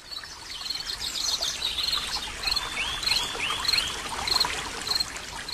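Birds singing and calling outdoors. A short high note repeats about every half second, and a run of four quick sweeping notes comes in the middle, over a steady hiss.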